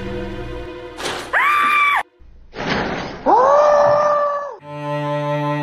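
A cat yowling twice: two long, loud drawn-out calls that rise, hold a steady pitch and drop away, the second lower and longer. Background music plays before and after them.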